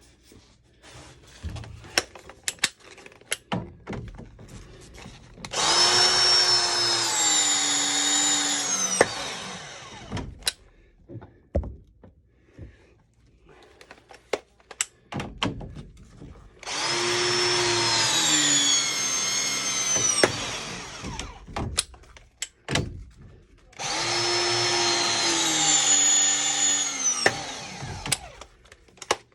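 Battery-powered ProPress pressing tool crimping copper fittings three times: each cycle a motor whine of about three and a half seconds whose pitch sags under load near the end before stopping. Clicks and knocks of fittings and tools being handled come between the presses.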